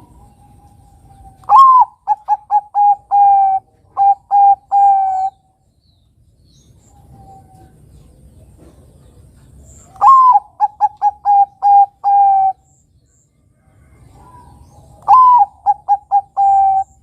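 Bangkok-type zebra dove (perkutut) cooing its song in three phrases. Each phrase opens with a sliding note followed by a quick run of short coos, and the phrases are separated by pauses of a few seconds.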